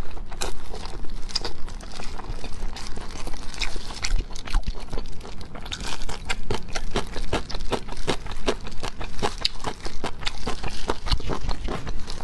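Close-miked chewing and lip-smacking while eating braised pork trotters, a steady string of quick sticky clicks and smacks.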